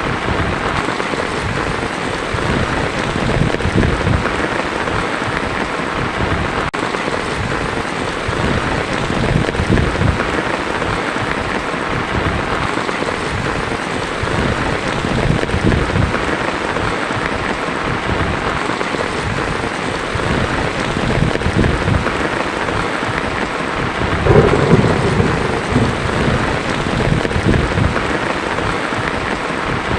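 Heavy rain drumming steadily on a tin roof, with low thunder rumbling through it and a louder roll of thunder near the end.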